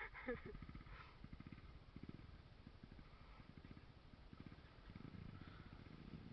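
Trail motorcycle engine running faintly at low revs, with a quick, steady beat of firing pulses.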